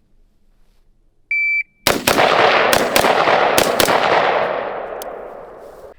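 A PACT Club Timer III shot timer gives one high beep. About half a second later comes a string of about six gunshots in quick pairs, with a heavy echo that rings on and fades out.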